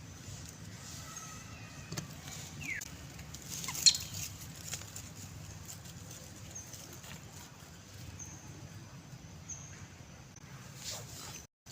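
Outdoor ambience: a steady low hum with a few short, high chirps, one falling in pitch, and a single sharp click about four seconds in.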